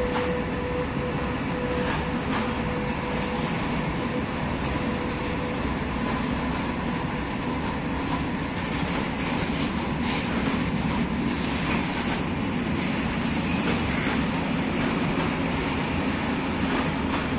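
Freight train of open gondola wagons rolling steadily past, a continuous rumble of steel wheels on rail. A thin steady tone fades away over the first few seconds.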